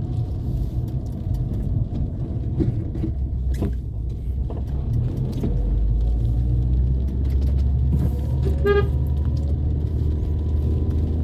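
Car driving through town streets: a steady low engine and road rumble that grows a little louder about halfway through, with one short car horn toot about three-quarters of the way in.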